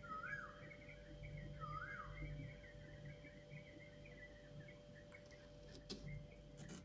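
Faint bird chirping and warbling, with repeated rising-and-falling calls in the first two seconds, over a steady low hum. A couple of light clicks come near the end.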